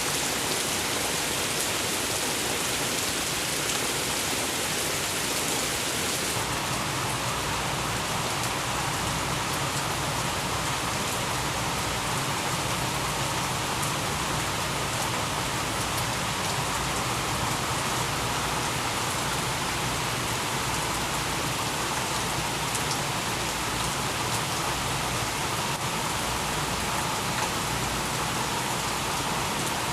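Heavy rain pouring down steadily, the downpour of a typhoon. About six seconds in, its tone changes.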